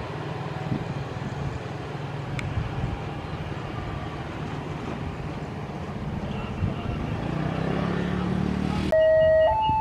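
Steady rumble of a passenger train's wheels on the rails as its last coach runs away down the line. Near the end this gives way abruptly to a level crossing's two-tone electronic warning alarm, alternating between a lower and a higher tone.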